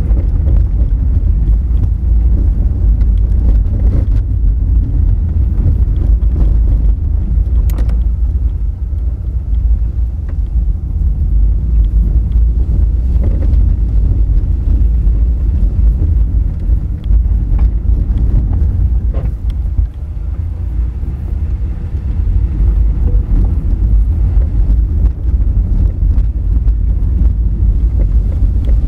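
Honda Fit driving over a rough, rock-strewn gravel forest road: a steady low rumble of tyres and suspension on loose stone, with scattered sharp clicks and knocks of stones against the car.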